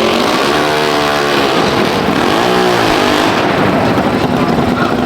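An engine revved twice, its pitch climbing and falling each time, over a steady loud wash of noise.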